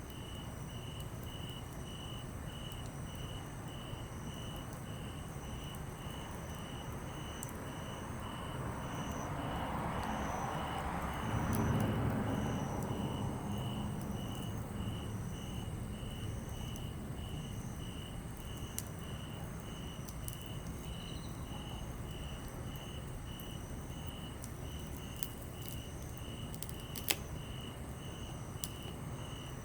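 Crickets chirping in a steady pulse, about two chirps a second, over a burning wood campfire that crackles with scattered sharp pops, one louder pop near the end. A broad rushing swell rises and fades in the middle.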